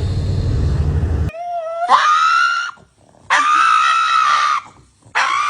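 A low rumbling noise that cuts off abruptly, then three long, loud screaming cries, the first rising in pitch and the other two held steady, with short pauses between them.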